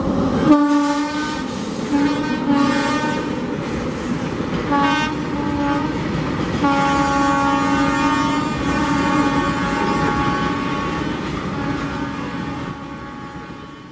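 Indian Railways freight train passing at speed behind twin WAG-9 electric locomotives, its tank wagons rumbling and clattering over the rail joints. A multi-tone air horn sounds in several short blasts, then one long blast of about six seconds. Everything fades out near the end.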